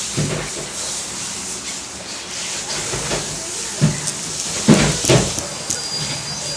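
Steady background hiss with a few soft knocks, the loudest two about four and five seconds in, and a faint thin high tone near the end.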